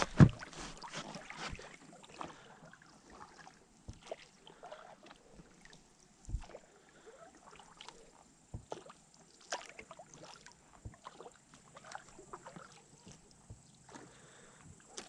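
Small rowboat on the water: scattered knocks and bumps against the boat with light water sounds between them, one louder knock just at the start.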